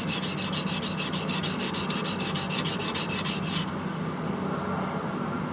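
Yanagiba blade being ground back and forth on a wet whetstone, a steady scraping rub. The crisp high hiss of the strokes drops away about two-thirds of the way through, leaving a softer rub. This is the shaping stage: steel is being ground off the bevel (kiriha) to reset its shape, not to put a sharp edge on.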